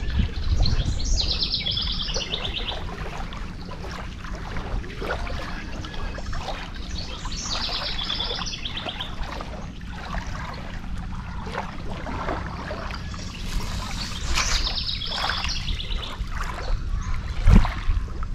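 A songbird sings the same short, fast, trilled phrase three times, about six seconds apart, each falling in pitch over about a second and a half, over a steady outdoor background noise. A dull thump sounds near the end.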